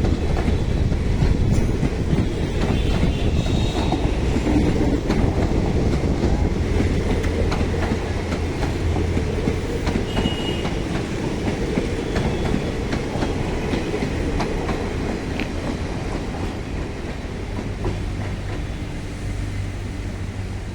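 Train coaches rolling past on the track, the wheels clicking over rail joints with a few brief, faint squeals; the rumble eases slightly in the last few seconds.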